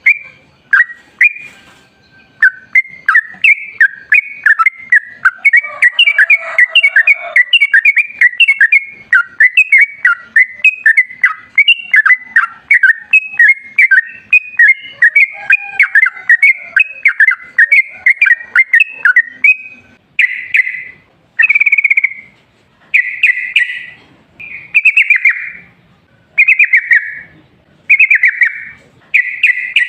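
Yellow-vented bulbul (trucukan) singing: a long, fast run of short chirping notes, then, from about two-thirds of the way in, short bubbly phrases repeated about once a second or so.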